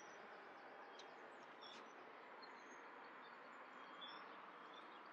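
Faint outdoor ambience: a steady low background hiss with scattered short, high bird chirps.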